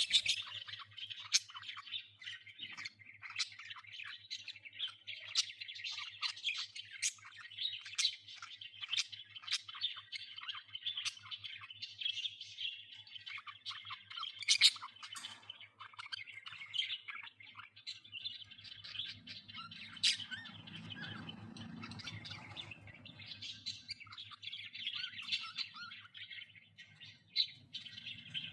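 Budgerigars chattering: a dense, continuous warble of rapid chirps and sharp squawks from several birds at once. The chatter thins for a few seconds past the middle, when a low rumble comes in, then picks up again.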